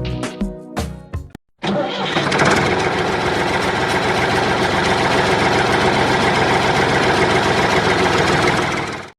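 Tractor engine sound effect: comes in abruptly about a second and a half in and runs steadily with a fast, even chugging, then cuts off just before the end. Background music fades out before it.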